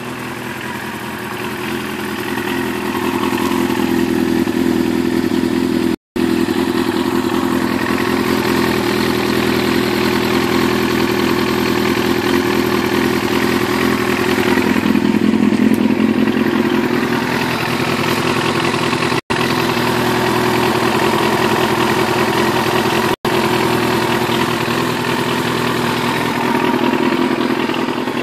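Yamaha YZF-R6's 600 cc inline-four engine idling steadily as it warms up after a cold start. The sound cuts out completely for an instant three times.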